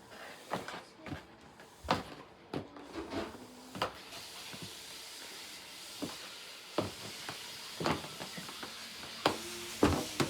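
Footsteps going down a flight of stairs: a run of irregular thuds, quicker in the first few seconds and more spaced out later, over a steady hiss.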